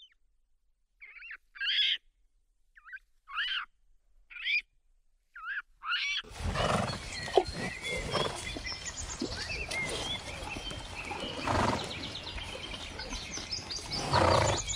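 About six short, high-pitched squealing calls from small primates, each bending up and down in pitch, with silence between them. About six seconds in, an outdoor recording of horses at pasture takes over: a steady noisy background with birds chirping and a few louder short noises from the horses.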